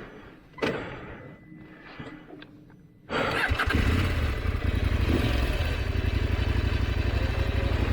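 A thump and a few faint knocks, then a KTM 890 adventure motorcycle's engine starts about three seconds in and settles into a steady idle.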